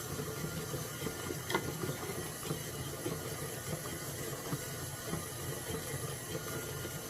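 Bread dough being stirred in a bowl with a Danish dough whisk: soft, irregular scraping and light knocks, one sharper click about a second and a half in, over a steady background hum.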